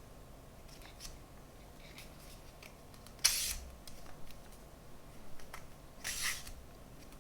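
Packaging and parts handled during an unboxing: light clicks and rustles, with two short, sharp scraping or tearing sounds a few seconds apart, the first the louder.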